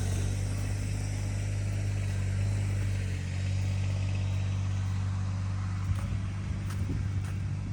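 Engine idling steadily with a low, even hum. A few faint knocks come near the end.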